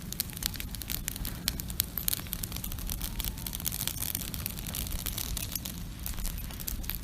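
Outdoor wood campfire crackling: many sharp irregular pops over a steady hiss, which grows brighter for a few seconds in the middle. A low steady rumble runs underneath.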